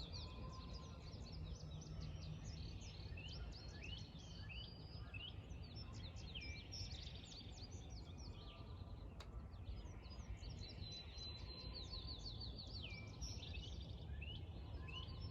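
Many small birds chirping together in a busy chorus of quick, high, mostly falling notes, over a steady low background rumble.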